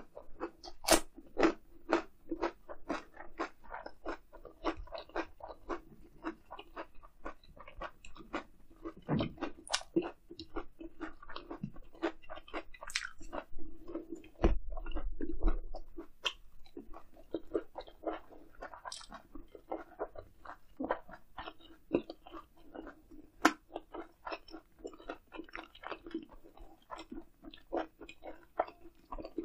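Close-miked chewing of grilled eel and lettuce wrap, with wet, crisp crunches and mouth clicks two or three times a second. There is a short low rumble about halfway through.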